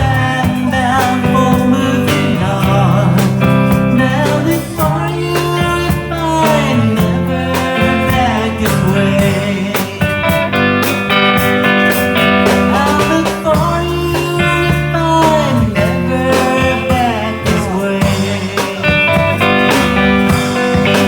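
Band music in a country-folk style: guitars over a steady accompaniment, with a lead line that slides and bends in pitch.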